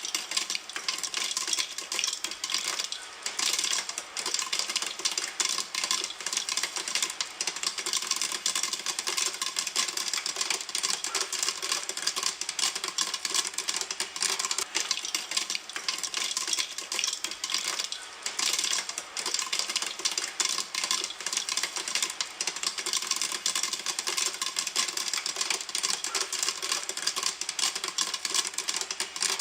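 Popcorn kernels popping in a pan: a dense, continuous crackle of many fast pops at full boil.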